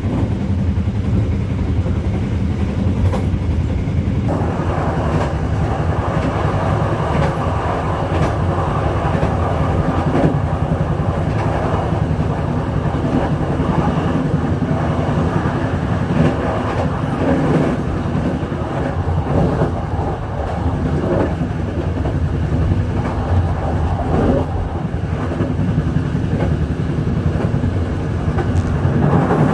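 Passenger train running along the track, heard from its rear car: a steady low drone with wheel-on-rail noise that grows fuller about four seconds in.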